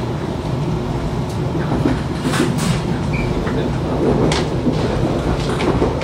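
Passenger train running, heard from inside the panoramic carriage: a steady low rumble from the wheels on the rails, with scattered clicks and knocks.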